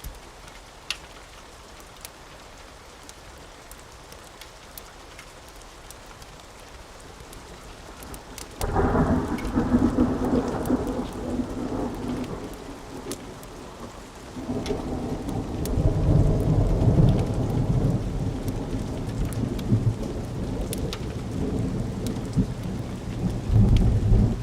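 Steady rain with scattered small clicks, then a thunderclap breaks suddenly about a third of the way in and rumbles low. It eases briefly before a second, deeper roll of thunder builds and carries on.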